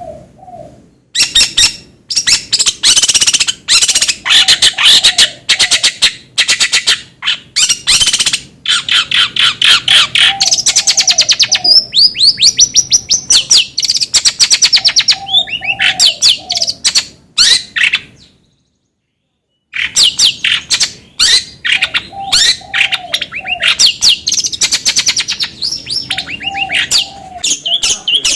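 Long-tailed shrike (cendet) singing a loud, fast, varied chattering song of rapid trills and harsh notes, with a lower warbled phrase repeating every few seconds. The song breaks off completely for over a second about two-thirds through, then resumes.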